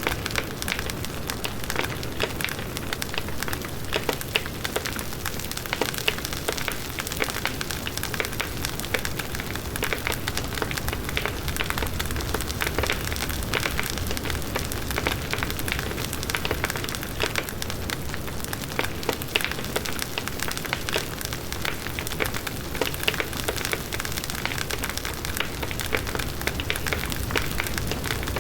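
Large wood bonfire burning steadily, with constant dense crackling and popping of burning wood over a low rumble of the flames.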